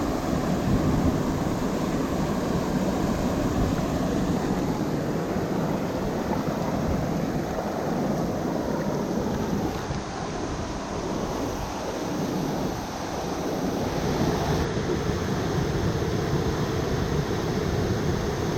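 Steady rush of water falling from a hot-spring waterfall.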